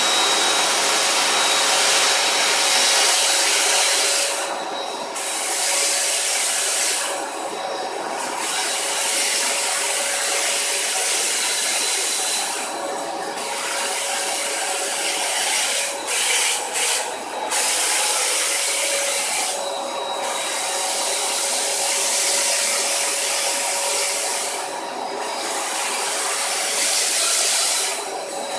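Zelmer 919.5 ST washing vacuum cleaner running steadily, its motor giving a constant whine under the rush of air. The rush thins out briefly every few seconds as the nozzle is worked over spilled flour, mayonnaise and water.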